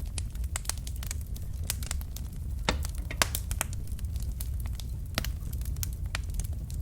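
Wood fire burning in a fireplace: irregular sharp crackles and pops from the burning logs, a few louder pops near the middle, over a steady low rumble of the flames.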